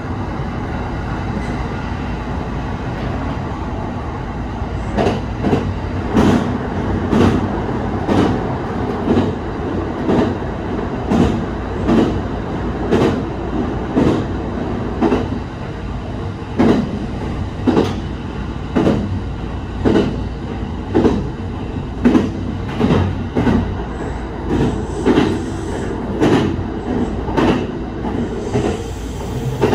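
Kintetsu Urban Liner Next limited-express electric train running along the line. A steady running noise is joined about five seconds in by a regular clickety-clack of the wheels over the rail joints, roughly one click a second.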